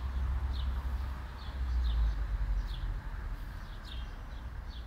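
A small bird repeating a short, high, falling chirp about once a second, over a low rumble of wind on the microphone.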